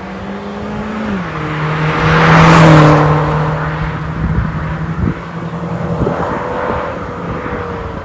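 Mazda2 1.5 four-cylinder engine running through an MS-R valved cat-back exhaust, holding steady revs. Its note drops in pitch about a second in and swells loudest around a third of the way through, then carries on steadily.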